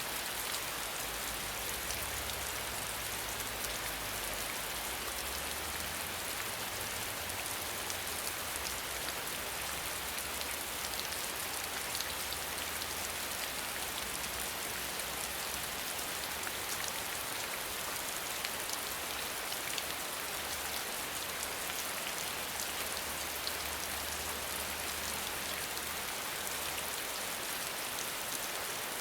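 Steady rain falling, an even hiss dotted with the fine ticks of individual drops.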